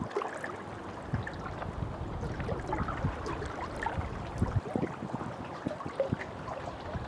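Small wind-driven waves on a reservoir lapping and splashing in quick, irregular slaps over a steady rush of wind.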